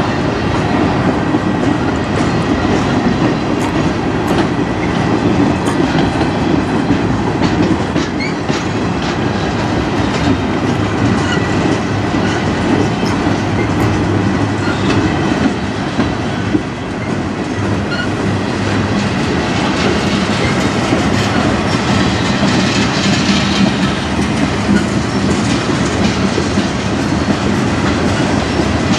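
Freight cars of a manifest train rolling past close by: a steady rumble of steel wheels on rail, with clickety-clack and occasional clicks as the trucks cross rail joints.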